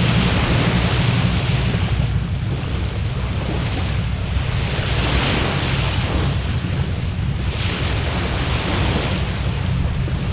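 Wood fire burning in a fire pit, a steady rushing hiss that swells and fades every couple of seconds, with wind rumbling on the microphone. A thin, steady high-pitched whine runs underneath.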